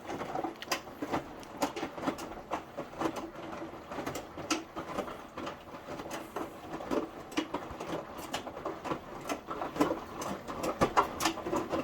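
Indesit 1400-spin washing machine in its wash cycle, taking in a little more water: irregular patter and clicks of the drum, laundry and water over a faint steady hum.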